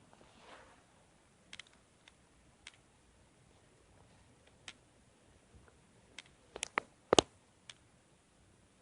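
A scattered series of short, sharp clicks and taps, about a dozen, coming thicker near the end, where a pair about seven seconds in is the loudest.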